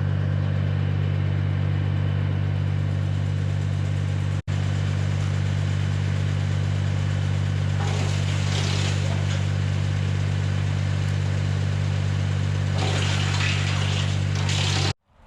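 Tractor engine running steadily while driving a PTO wood chipper, a deep even drone. About eight seconds in and again near the end, a rush of higher hissing noise rises over it as material goes through the chipper. The sound cuts out for an instant about four seconds in.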